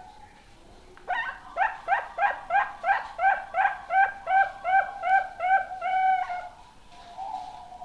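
Young zebra dove (perkutut) cooing: a run of short, repeated, rising coo notes at about three a second, ending on a longer held note about six and a half seconds in.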